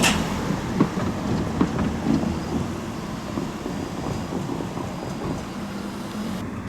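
Train running past at a railway level crossing: a steady rumble with a faint low hum and a few irregular knocks, opening with a sharp click.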